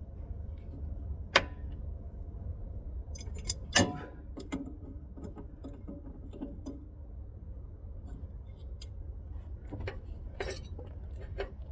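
A few sharp metallic clinks and knocks of hand tools and steel steering parts being handled under a truck, the loudest about four seconds in, over a low steady rumble.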